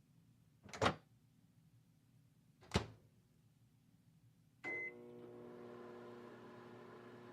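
Two sharp clunks, then a short keypad beep, after which a microwave oven starts running with a steady hum.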